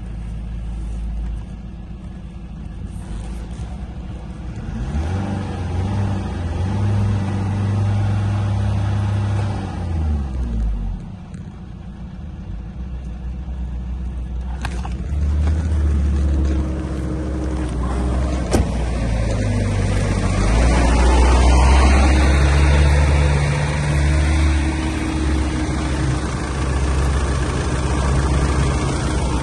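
Mercedes-Benz OM611 2.2-litre common-rail four-cylinder diesel running under test, idling and revved several times: the revs climb about four seconds in, hold, and drop back to idle, then rise again twice in the second half. A couple of sharp clicks come in between.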